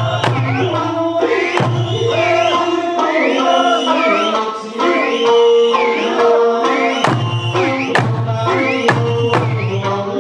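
Eisa music: an Okinawan folk song sung to a melodic accompaniment, punctuated by heavy taiko drum strikes with a low ringing boom, one at the start, one after about a second and a half, and three close together near the end.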